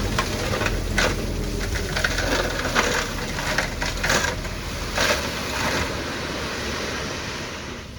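Heavy earth-moving machinery working: a low engine rumble under a noisy rush with irregular knocks and clatter, dying down near the end.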